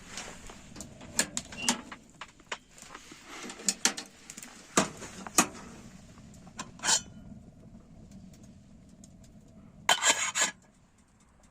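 Handling of metal camp gear: scattered light clinks and knocks, with a quick rattling cluster of them about ten seconds in.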